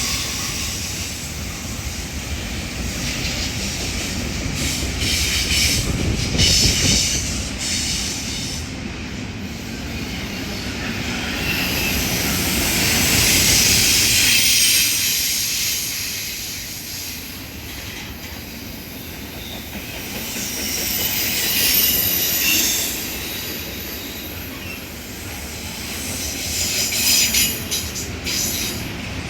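Long intermodal freight train rolling past, its steel wheels squealing on the rails with a running clatter. The loudness swells and fades several times as the cars go by.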